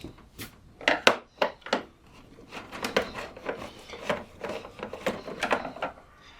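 Long screwdriver working the side screws out of a UPS's case: a run of irregular clicks, knocks and scrapes, sparse at first and coming thick and fast through the second half.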